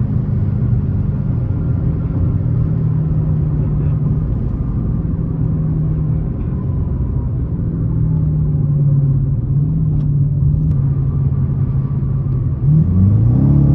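Dodge Challenger R/T's Hemi V8 running at steady low revs while cruising, then revving up sharply near the end as the car accelerates.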